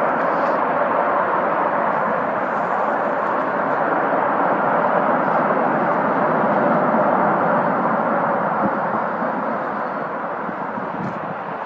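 Jet airliner engine noise passing close by, a loud steady rush that swells slightly and then fades over the last few seconds.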